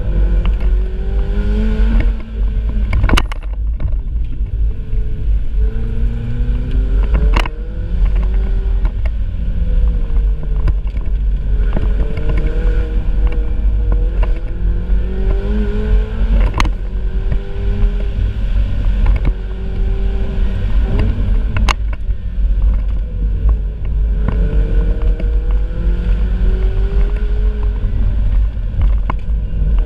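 Ferrari 488 Spider's twin-turbo V8 being driven hard, its note climbing and then dropping back again and again, with a few sharp cracks along the way, over a heavy low rumble.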